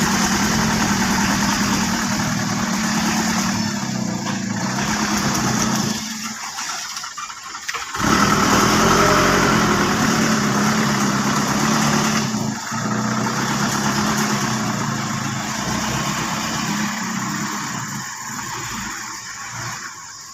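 Old dump truck's engine running hard under load while its tyres slip. The engine drops away for a couple of seconds around six seconds in, picks up louder again at about eight seconds, and eases off near the end.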